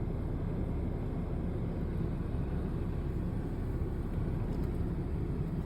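Steady low rumble of an airplane passing overhead.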